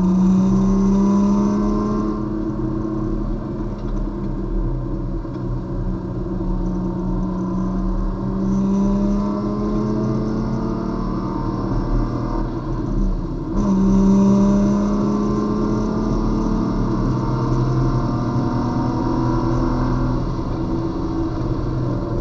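A race car's engine heard from inside the cabin under hard acceleration, its note climbing steadily in pitch. About halfway through it dips briefly, then pulls again and climbs, and it falls away near the end as the car brakes from speed.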